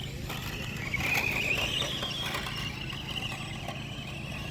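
Electric motors of radio-controlled Redcat Wendigo trucks whining as they race. The whine comes up about a second in and wavers in pitch as the throttle changes.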